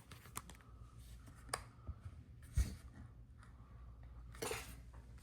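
Faint handling noises: a few scattered light clicks, one louder dull thump about halfway through, and a brief soft rush of noise near the end.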